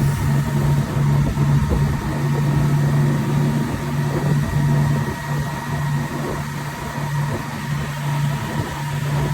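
Speedboat engine running steadily at speed: a constant hum that drops out for a moment every second or so, over a dense low rumble.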